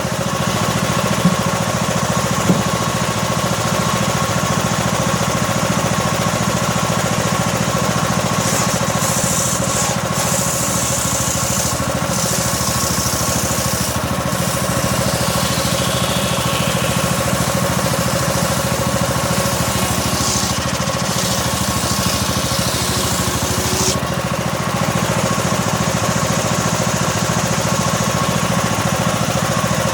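Homemade circular saw rig slowly ripping a small teak log: its engine runs steadily throughout, while the hiss of the blade cutting wood rises and falls, with a falling whine about halfway through. Two sharp knocks sound in the first few seconds.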